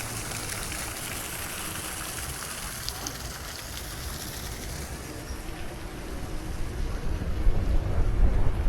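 Outdoor ambience heard while cycling: a steady hiss, with low wind rumble on the microphone swelling and getting louder over the last couple of seconds.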